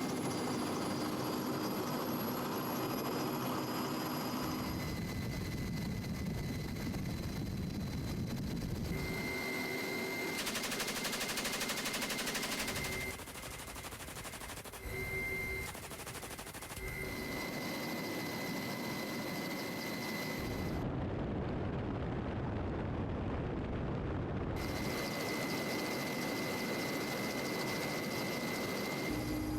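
Military field audio cut together from several clips: steady engine and rotor noise with stretches of rapid machine-gun fire. The sound changes abruptly every few seconds at the cuts.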